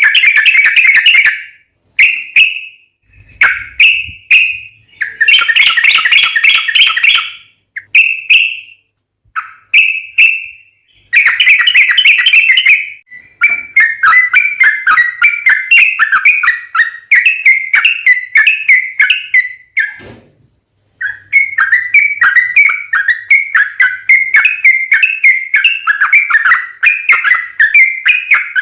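Yellow-vented bulbul song: loud bubbly phrases in short bursts, then from about halfway long runs of rapid repeated chattering notes, broken once briefly.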